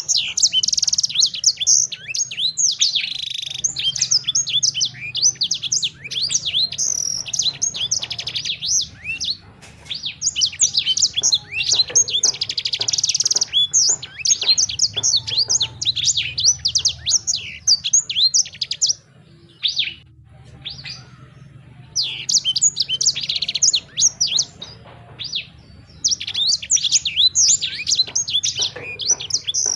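Songbird singing long bouts of rapid, high chirps and trills, breaking off briefly several times before starting again.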